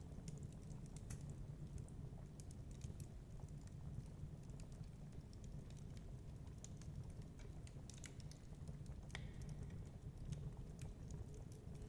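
Wood fire crackling in a fireplace: scattered, irregular sharp pops and snaps over a steady low rumble.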